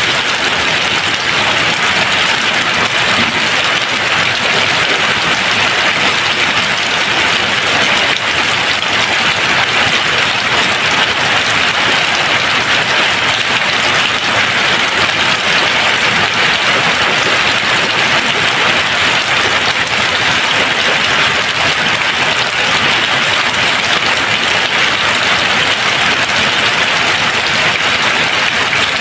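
Steady rain falling, an even unbroken hiss of many drops with no thunder.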